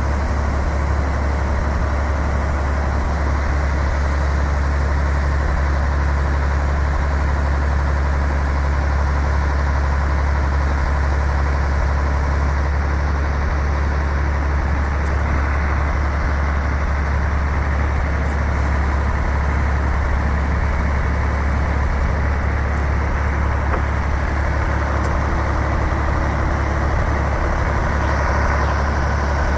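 Iveco 380E42 6x6 truck's diesel engine idling steadily, a deep, even drone.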